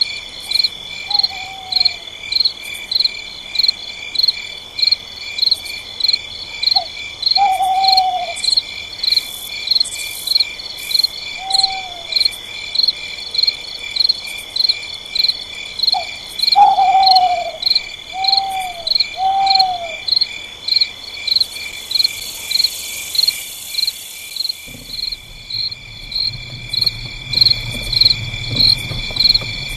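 Night chorus of crickets, a steady high trilling that pulses about twice a second. A few short falling hoot-like calls sound over it in the first two-thirds, and a low rumble comes in near the end.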